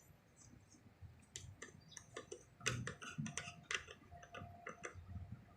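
Light plastic clicks and ticks at uneven intervals as a replacement switch and its parts are fitted into an electric kettle.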